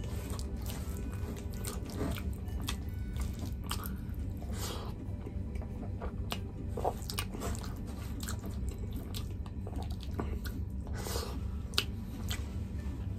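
Close-miked chewing and wet mouth smacks of someone eating curry chicken and rice by hand, with many short, irregular clicks, over a steady low hum.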